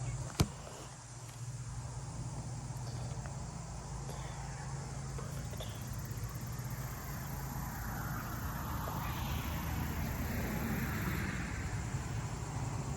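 A phone knocking once as it is set down on a hard surface, then steady outdoor background: a low hum with insects in it.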